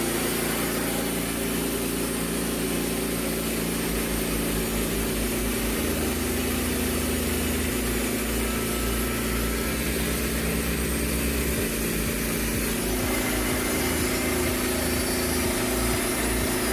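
A homeowner bandsaw mill running steadily, its band blade sawing through a maple log.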